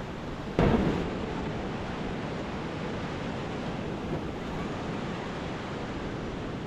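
Lake Superior waves crashing on the shore, with wind buffeting the microphone. About half a second in, a sudden louder rush cuts in and fades over half a second.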